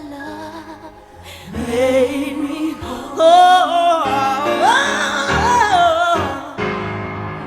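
Gospel singing: a solo voice with wide vibrato and sliding runs over held keyboard chords, swelling loudest in the middle.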